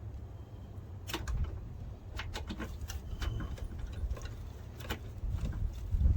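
Scattered light metallic clicks and taps as brake-line fittings are lined up and threaded into a replacement ABS brake module, over a steady low rumble.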